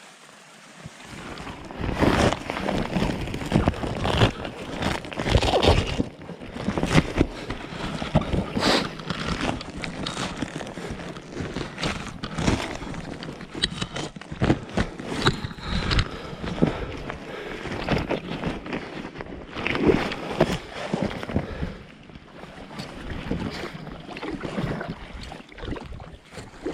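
Packraft being paddled on a river: irregular paddle splashes and knocks against the boat, with wind and handling noise on the microphone. It starts about two seconds in.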